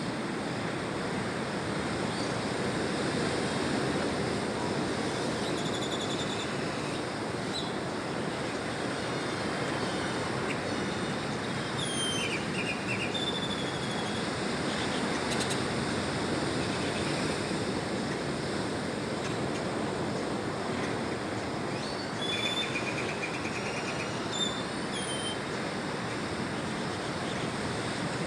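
Birds chirping in short, scattered calls, in a few clusters, over a steady rushing background noise.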